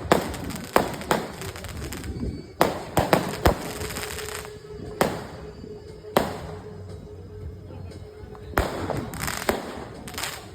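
Fireworks going off: about a dozen sharp bangs at irregular intervals, several trailing off in a crackle, bunched most thickly in the first four seconds.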